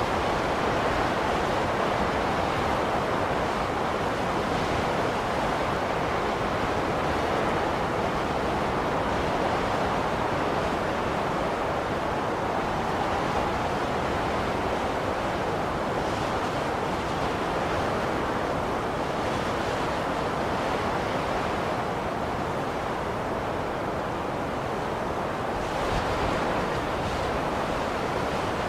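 Blizzard wind blowing steadily, a dense rushing noise with slight swells in strength.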